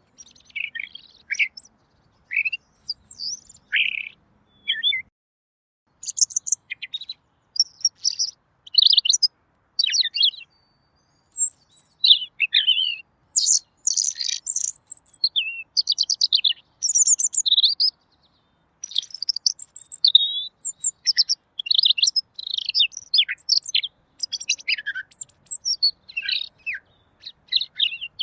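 Pekin robin (red-billed leiothrix) singing a clear, fast, varied song of high chirps, whistles and trills in quick successive phrases, with short pauses about five seconds in and again past the middle.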